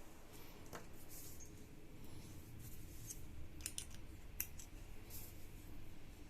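A few light clicks and scrapes of small metal parts being handled: the clutch shoes and springs of a scooter's centrifugal clutch being fitted together, over a faint low hum.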